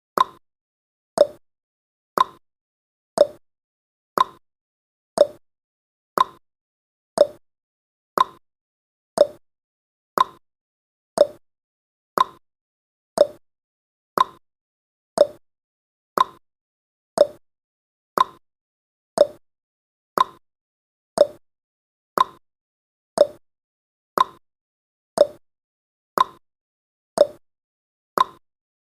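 Countdown timer ticking sound effect: one short, sharp tick every second, with successive ticks alternating between a lower and a higher pitch, like a clock's tick-tock.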